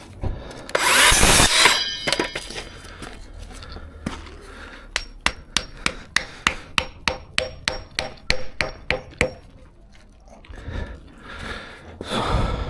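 Hand-tool work on a timber formwork frame: a loud scrape about a second in, then a run of quick, sharp, even taps, about four a second for some four seconds.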